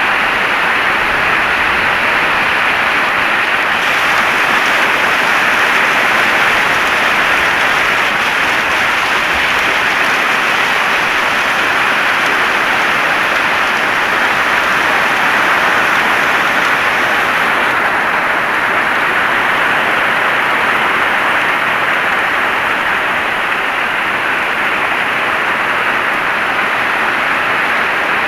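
Heavy rain falling, a steady, dense hiss of noise.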